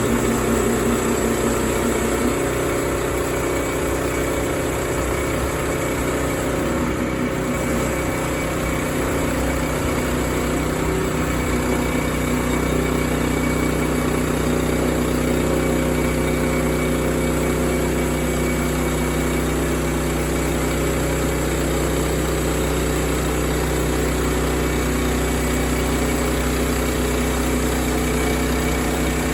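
Sawmill's engine running steadily, its pitch holding level with no clear change in load.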